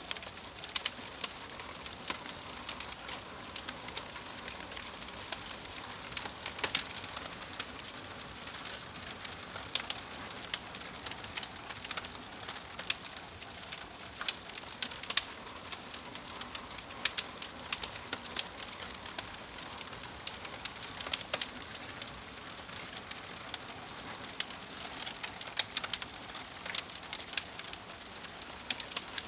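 Fire crackling: a steady hiss with frequent irregular snaps and pops.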